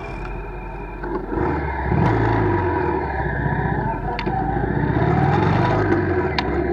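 A motor vehicle engine running, its pitch rising and falling as it speeds up and slows, with two sharp clicks late on.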